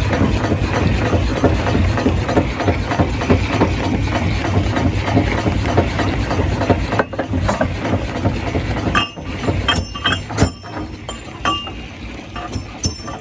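Stone crusher machinery running, a steady heavy grinding noise with a dense rattle of rock being broken. About seven seconds in it drops away, leaving a quieter stretch of scattered sharp clicks and knocks.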